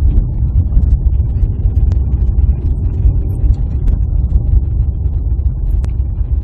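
Steady low rumble of a car being driven, heard from inside the cabin, with a few faint clicks.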